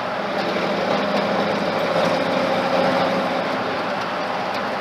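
Ford flathead engine in an old truck running steadily on the road, with only small swells in its note.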